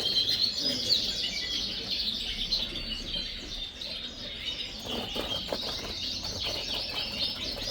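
A roomful of Yorkshire canaries chirping and calling together, a dense, continuous chatter of many overlapping high chirps, with a few soft knocks about five seconds in.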